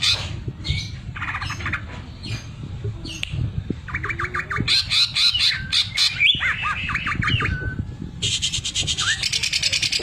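A cucak ijo (green leafbird) singing a varied song of sharp chirps, quick trills and gliding whistles. From about eight seconds in it runs into a fast, even rattle, the sewing-machine ('mesin jahit') imitation prized in this bird's song.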